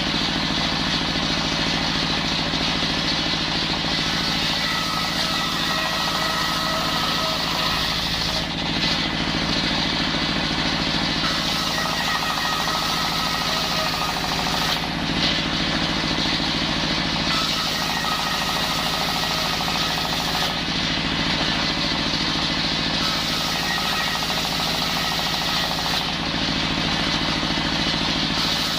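Engine-driven circular saw running continuously while ripping timber for roof rafters. Its sound shifts in a regular cycle about every five to six seconds, as the blade goes through repeated cuts.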